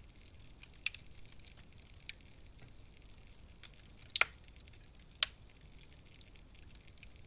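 Wood fire burning low with a soft steady hiss and scattered crackles, including sharp pops about a second in and twice more past the middle.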